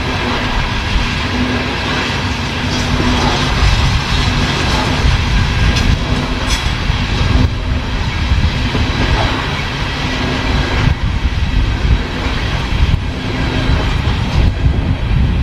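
CSX coal train's open coal cars rolling past: a steady, loud rumble of steel wheels on the rails with clickety-clack over the rail joints.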